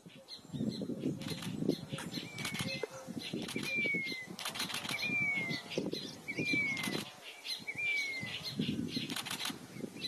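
Birds' wings flapping in flurries, while a bird gives a short downward-sliding whistle about five times, roughly every second and a half.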